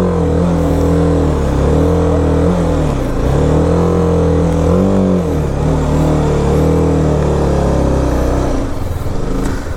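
BMW G 310 RR's 313 cc single-cylinder engine revving under load, its pitch rising and falling several times as the bike struggles to climb a steep hill.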